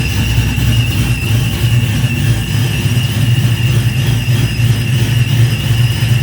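Engine idling steadily on its first start-up, a low, even rumble with a steady high whine over it.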